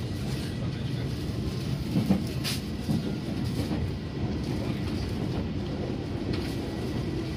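Steady rumble of a moving passenger train heard from inside the coach, its wheels running on the rails, with a louder knock about two seconds in.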